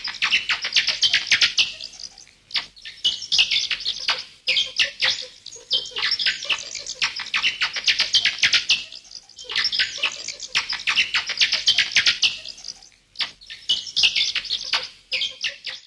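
Bats squeaking: rapid, high-pitched chirps and clicks in dense bouts of about two seconds, with short pauses between.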